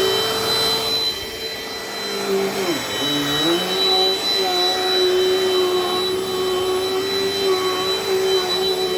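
Dirt Devil Dynamite Plus vacuum cleaner running with a steady motor whine. About three seconds in, the pitch sags briefly, as if the motor is loaded down, then recovers.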